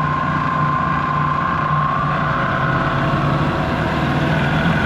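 Prodex Model 2JSS high intensity mixer running at speed with a load of whole wheat flour: a steady motor-and-blade whine over a low hum. It is not struggling at all with the load.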